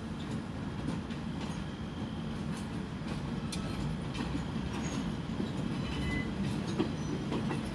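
Passenger coaches rolling slowly over yard track: a steady low rumble with wheels clicking over rail joints and a few brief, high wheel squeals partway through.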